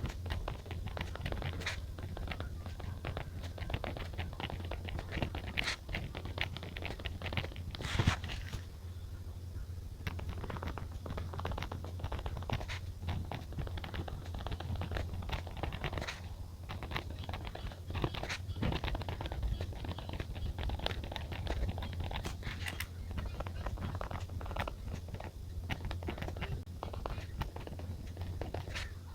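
Desk journaling sounds: paper and stationery being handled, with small scratches, rustles and taps throughout and one sharper knock about eight seconds in, over a low steady hum.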